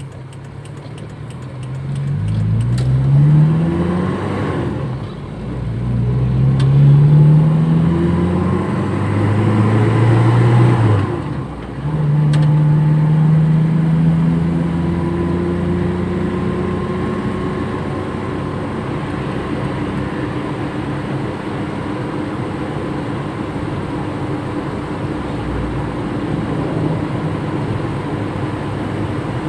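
Toyota Kijang's engine accelerating up through the gears: its note climbs in pitch four times, dropping back at each gear change, then settles into a steady cruise from about halfway on.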